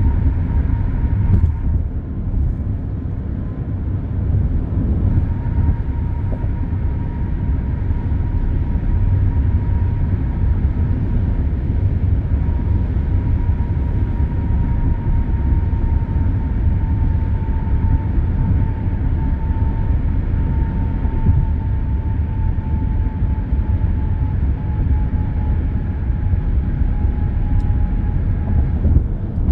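Steady expressway traffic noise, heaviest in the low end. A thin whine sits on top and slowly drops in pitch through the second half.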